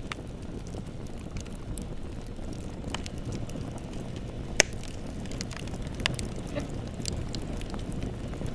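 Bonfire burning with a steady low rumble and scattered crackles, one loud pop about halfway through.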